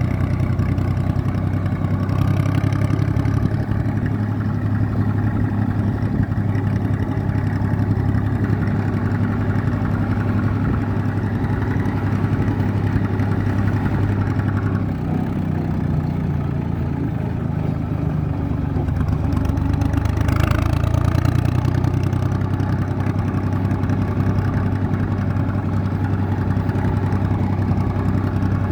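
IMT 549 tractor's diesel engine running steadily under way, easing off a little past the middle and picking up again soon after.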